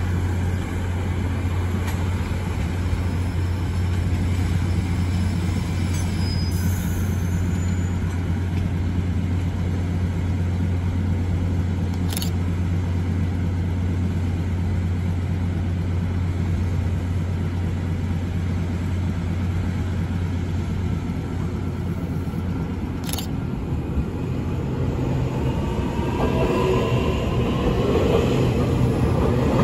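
Taiwan Railway DR2800 diesel multiple unit idling at a platform with a steady low drone. From about 26 seconds in, an EMU800 electric commuter train comes in on the adjacent track, and its wheel rumble and motor whine grow louder toward the end.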